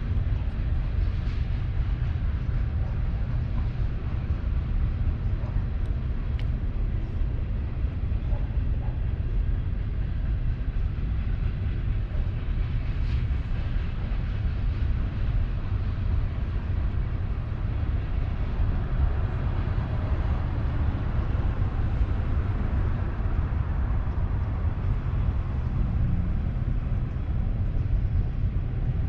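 Train passing with a steady low rumble; no horn sounds.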